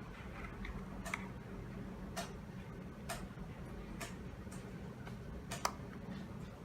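Sharp ticks at about one a second, a little uneven, over a low steady hum.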